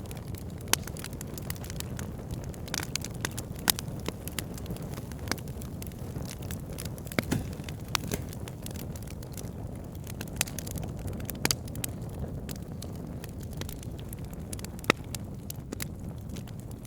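Wood fire burning: a steady low rumble of flames with irregular crackles and occasional sharper pops from the burning logs.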